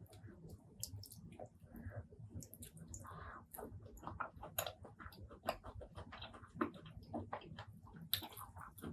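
Close-miked chewing and mouth sounds of a person eating, with many small irregular sharp clicks and crackles.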